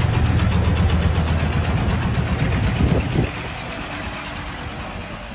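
An engine running close by, with a steady low hum and rapid even pulsing, easing off a little after about three seconds.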